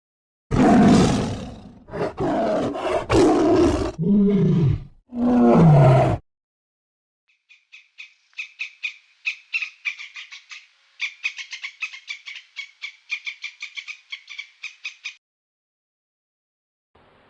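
A large animal roaring and growling in several loud, rough calls over the first six seconds, the last ones sliding down in pitch. After a pause comes a long, fast run of short, high chirps lasting about eight seconds.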